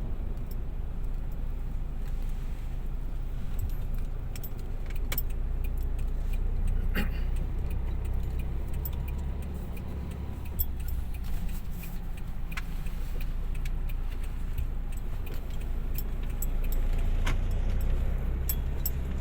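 Light rain: scattered drops ticking sharply and irregularly on a hard surface, over a steady low rumble.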